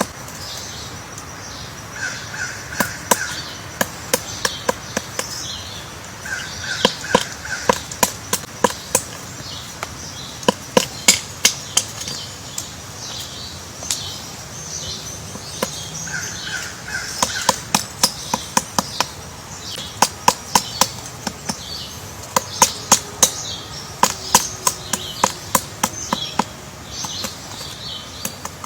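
Woodpecker chiselling a nest hole in a tree trunk: irregular runs of sharp pecks against wood, some quick strings, some single blows. Behind it, insects chirr steadily, and a short triple-note bird call comes three times.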